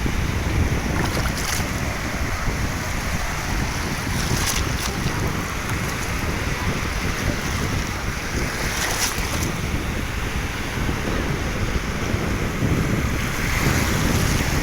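Steady rushing of wind and water, heaviest in the low end, with wind buffeting the microphone and a few brief crackles.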